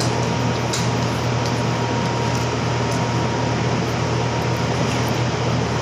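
Air conditioner running: a steady low hum under an even rushing noise, with a faint steady whine and a few light clicks.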